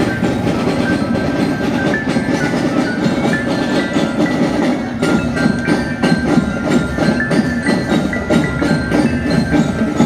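Marching drum band playing: drums beat a dense rhythm under a high tune played on mallet bells (bell lyra).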